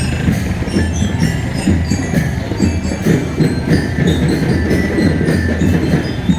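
Marching drum band playing: dense, steady drumming with a melody of short, high notes on top.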